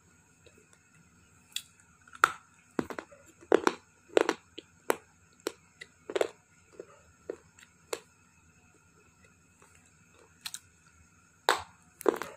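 Soft white slate stone being bitten and chewed: a run of sharp, irregular crunches about every half second, a pause of a couple of seconds, then a few more near the end.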